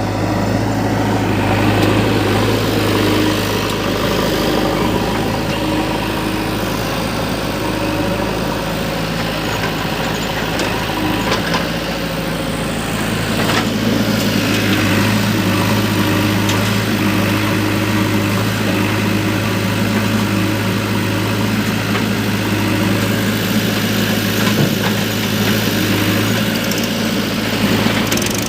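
A diesel engine of heavy farm or earth-moving machinery running steadily at a low, even speed.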